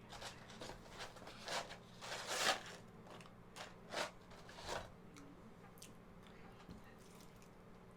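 A person biting and chewing crunchy fried fast food: a run of crisp crunches, the loudest about two and a half seconds in, stopping about five seconds in.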